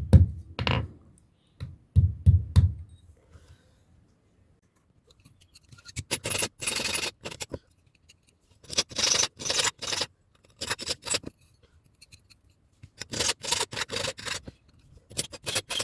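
Metal of a hand-forged knife being scraped or filed by hand: groups of quick rasping strokes with short pauses between them. A few dull knocks come in the first seconds.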